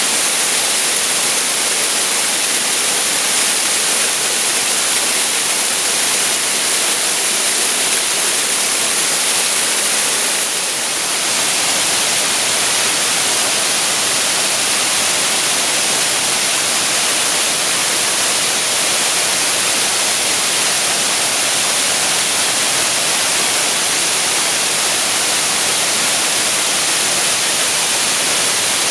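Waterfall pouring: a steady, even hiss of falling water, strongest in the high frequencies.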